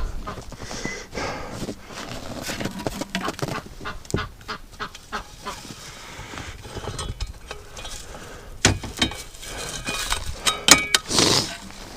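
Domestic ducks and geese calling, with honks and quacks clustered near the end, over wind noise and a run of short knocks and crunches.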